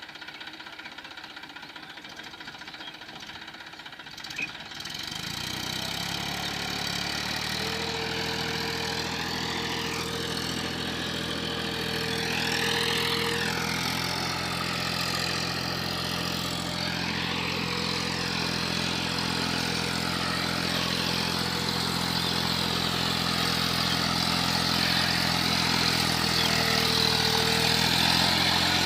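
Eicher DI 480 tractor's diesel engine running. It is fainter for the first few seconds, then about five seconds in it grows louder and settles into a steady, even running note that slowly gets louder toward the end.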